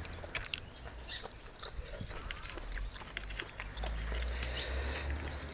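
A person chewing and smacking wet mouthfuls of spicy seafood papaya salad, with scattered sharp mouth clicks throughout and a short hiss about four and a half seconds in.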